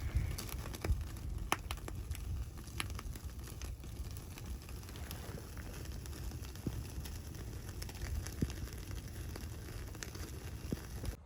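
Wood fire crackling, with scattered sharp irregular pops and snaps over a low steady rumble. The sound cuts off abruptly near the end.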